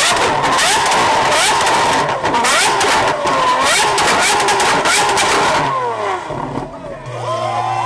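Loud sports car exhaust revving hard, its pitch climbing and falling again several times, with sharp crackles and pops. About six seconds in, the hard revving stops and a lower, steadier engine note takes over.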